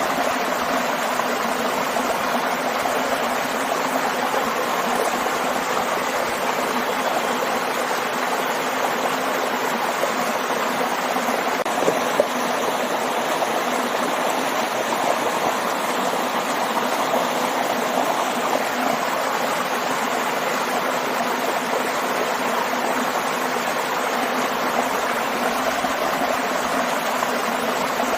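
A stream and a small waterfall, water rushing and splashing steadily without a break. A brief splash stands out about twelve seconds in.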